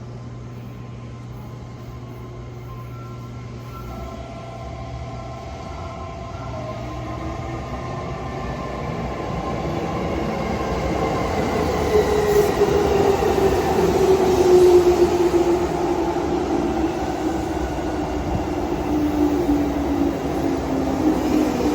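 A JR 415-series electric multiple-unit train approaching, growing steadily louder. From about halfway through, a whine falls slowly in pitch.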